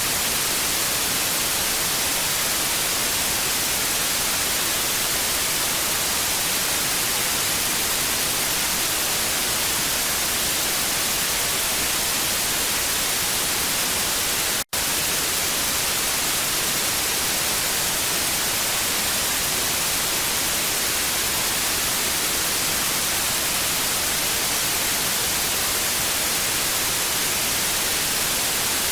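TV static: a steady, even hiss, brightest in the treble, that cuts out for an instant about halfway through.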